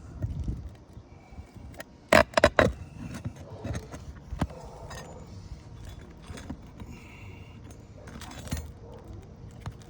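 Metal roofing tool and nails clinking while nails are worked out from under asphalt shingles: a quick run of sharp metallic clinks about two seconds in, with lighter taps and scrapes around it.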